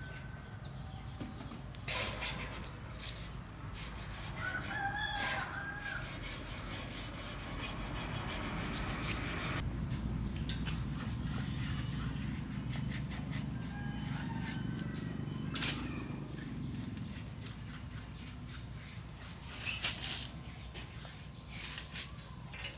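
A rooster crows once about five seconds in, over a steady low hum and a long run of rapid clicking and rubbing.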